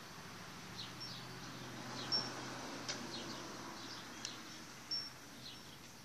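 Small birds chirping: short, high, down-slurred chirps every second or so, with a couple of brief thin whistles.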